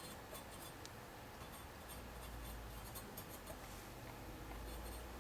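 Faint scratching and light clicks of small hand work on the metal tubes of a scale exhaust being prepared for silver soldering. A low steady hum runs underneath.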